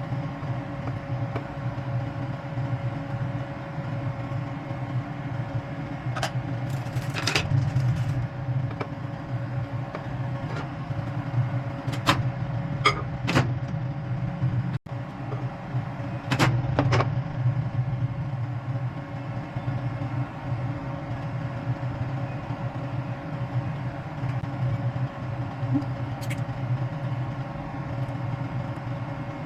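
A steady low mechanical hum, with a few sharp clicks and knocks in small clusters about a third and halfway through.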